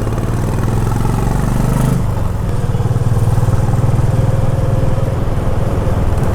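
Honda H'ness CB350's single-cylinder engine pulling under throttle while riding. Its note climbs for about two seconds, drops with a gear change, then runs steadily.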